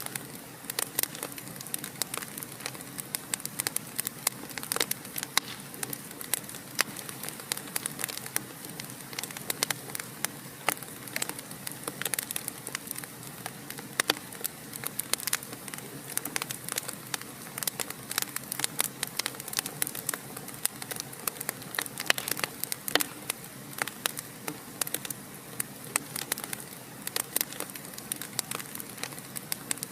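Wood fire crackling: a steady hiss of burning with dense, irregular sharp pops and snaps throughout.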